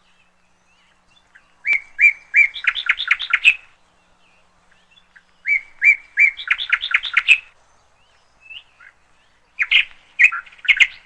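A songbird singing two phrases about four seconds apart, each a few even notes that speed into a quick run, followed by a few short chirps near the end.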